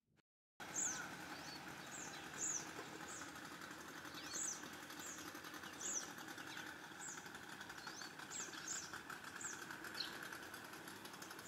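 Birds chirping in the trees: short, high calls that drop in pitch, scattered irregularly over faint, steady outdoor background noise. The sound starts after about half a second of silence.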